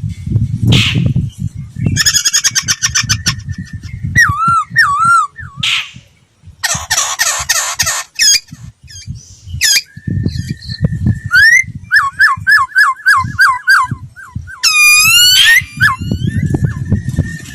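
Laughingthrush (khướu) singing a varied, loud song of whistled phrases: looping repeated notes, a buzzy rattle, runs of quick slurred whistles and a fast rising series near the end. An irregular low rumble sits underneath at times.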